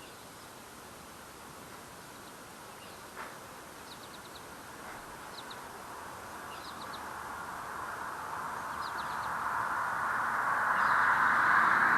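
Small birds chirping in quick clusters of three or four notes, several times over. Beneath them a rushing noise grows steadily louder through the second half.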